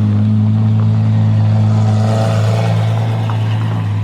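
Vehicle engine running at a steady idle, a low, even hum that neither rises nor falls.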